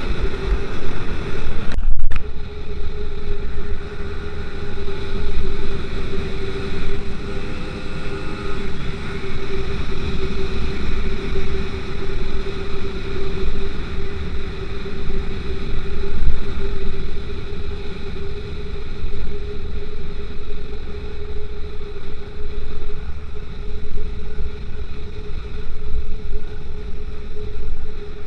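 BT100 two-stroke bicycle engine running under way at a fairly steady pitch, with heavy low rumble beneath it. The sound breaks off for an instant about two seconds in.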